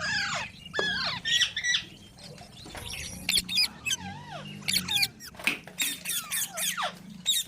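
Pet green parrot giving a run of short squawks and chirps, each call sweeping sharply up and down in pitch, with a few sharp clicks in between.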